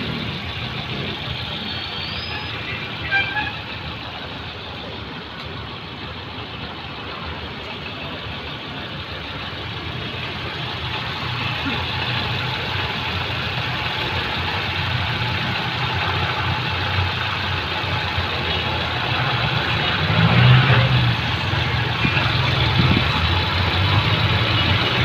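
A motor vehicle running, a steady noisy sound that grows gradually louder, with a brief louder knock about three seconds in.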